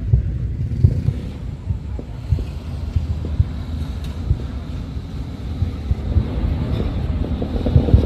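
Distant fireworks booming as a low rumble, with irregular dull thuds every second or so.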